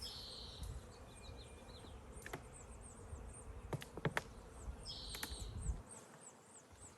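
Honeybees buzzing around an opened hive, a steady low hum, with several sharp clicks near the middle.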